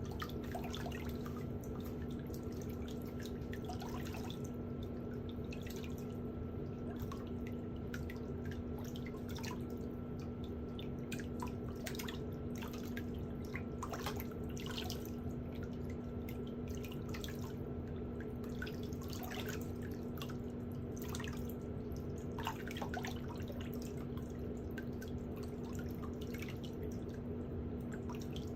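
A steady low electrical hum with many faint, irregular clicks and ticks over it.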